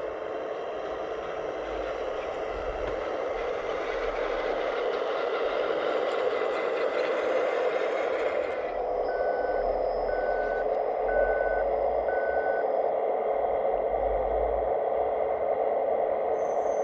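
Steady machine noise from a radio-controlled scale construction model, with a reversing alarm beeping four times, about once a second, around the middle.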